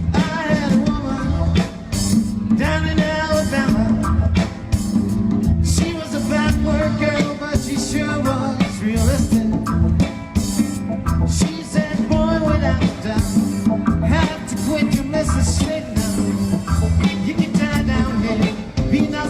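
Reggae band playing live: a singer's voice over bass, guitar and drums, with a steady, even beat.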